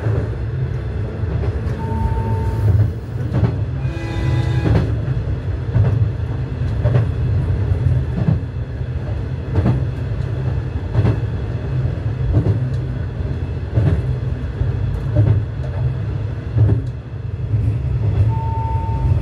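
KiHa 120 diesel railcar running along jointed track: a steady low engine and running drone, with wheel clicks over the rail joints about every second and a half.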